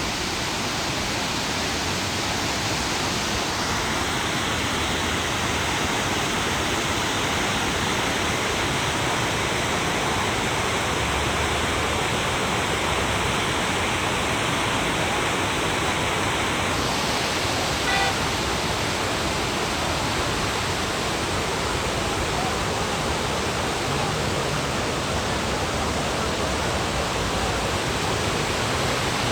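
Steady, loud rush of fast-flowing river water, an even noise with no break, with a faint tick about 18 seconds in.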